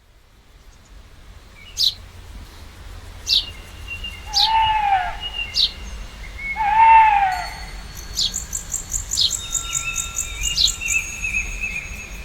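Birds calling: a string of sharp, high, falling chirps, two lower arched calls about four and a half and seven seconds in, and a rapid high trill in the second half.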